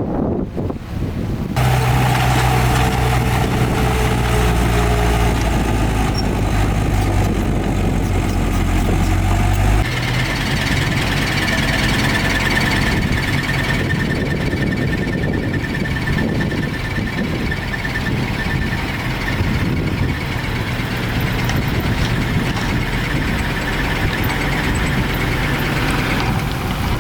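Heavy diesel earthmoving machinery running at a landfill. A deep, steady engine note gives way abruptly about ten seconds in to a different engine sound carrying a steady high whine.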